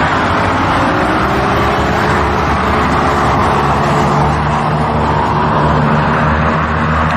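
Sportbike engine running at a steady, fairly constant speed over a continuous rush of noise, its pitch drifting slightly up and down.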